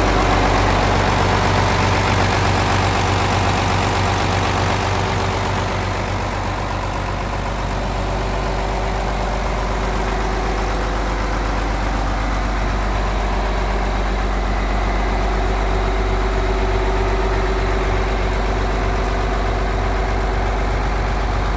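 John Deere 7520 tractor's 8.7-litre six-cylinder diesel engine running steadily, with a slight dip in level a few seconds in.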